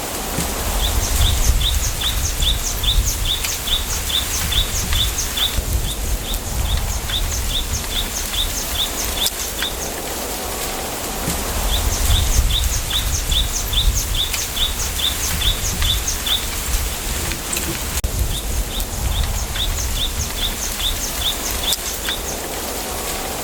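A bird calling in long runs of quick, evenly spaced high notes, about three a second, with a few short pauses between runs. Behind it is a steady rustling hiss of wind through bamboo leaves and a low rumble.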